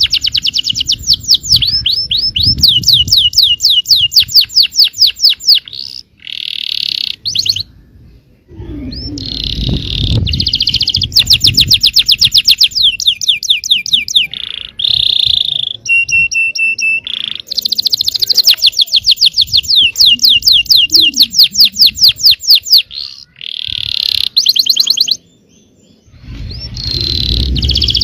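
Yellow canary singing in long, fast rolling trills of rapidly repeated high notes, broken by short pauses about six and twenty-five seconds in.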